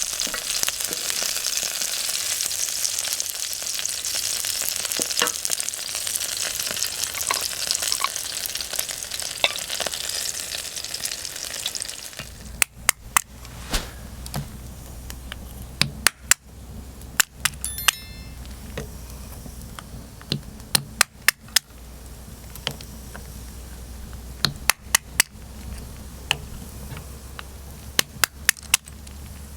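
Food frying in a pan over a wood fire, with a dense sizzle for about the first twelve seconds. Then the sizzle drops away to a quieter background, broken by sharp clicks in quick groups of three or four.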